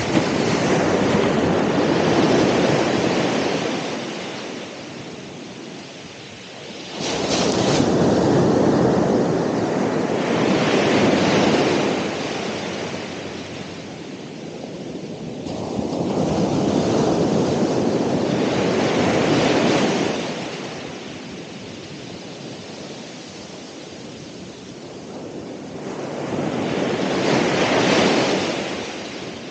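Ocean waves breaking on the shore, four surges of surf that build and then fade away over several seconds each, the second starting with a sharp crash.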